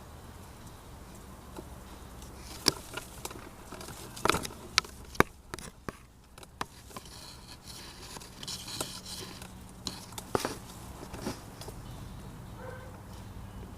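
Irregular sharp clicks and knocks, about a dozen, with light rustling in between, loudest between about four and five seconds in and again near ten seconds.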